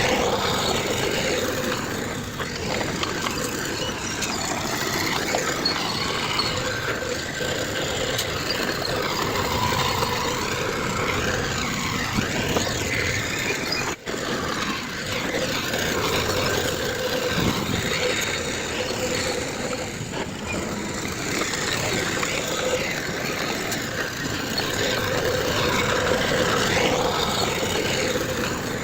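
Heavy diesel earthmoving machinery running steadily, with a very brief break about halfway through.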